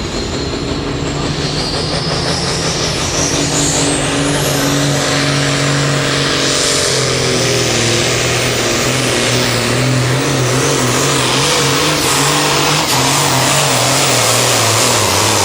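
Turbocharged diesel pulling tractor at full throttle under heavy load, its engine note sinking steadily as the sled drags it down. A high whistle climbs over the first few seconds, and the engine cuts off abruptly at the end of the pull.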